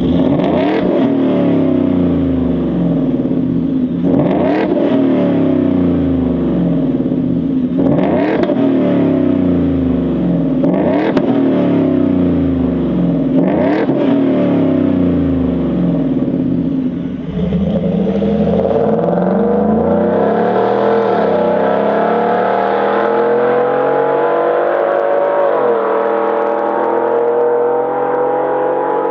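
Ford F-150 engine running through an AWE 0FG straight-through stainless catback exhaust. It gives about five quick revs from idle, each rising and falling back, then a long pull with the revs climbing steadily, dipping briefly twice as if through gear changes.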